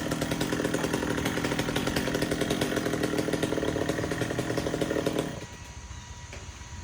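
Chainsaw engine running steadily at a constant pitch, then dropping off sharply about five seconds in, leaving a much quieter sound.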